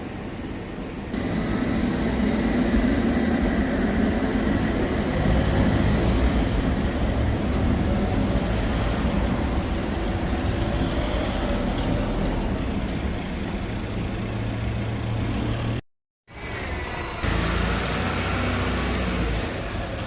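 Tram running along the track, heard from on board: a steady rumble of wheels and motor that grows louder about a second in. The sound cuts out for a moment near the end, then carries on.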